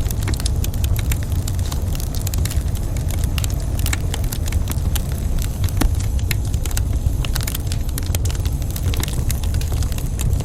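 Wood fire crackling in a fireplace: frequent irregular snaps and pops over a steady low rumble, with one louder pop about six seconds in.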